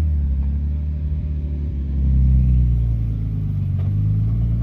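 Car engine running at low revs, with a slight rise in engine speed about two seconds in.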